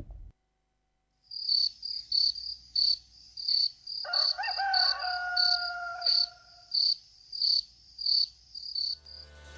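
Cricket chirping in short, evenly spaced chirps, about two to three a second, starting after a second of silence. A steady whistling tone joins in the middle for about three seconds.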